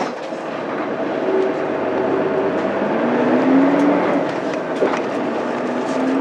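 Mitsubishi Fuso Aerostar city bus's 6M70 straight-six diesel engine pulling under way, heard inside the cabin over road noise. Its note rises, drops back about four seconds in, then climbs again.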